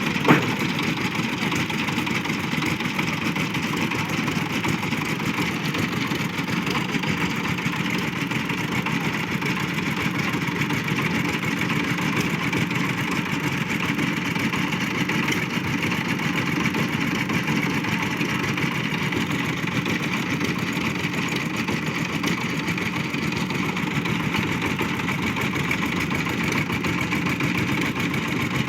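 An engine running steadily and evenly, with one brief sharp click just after the start.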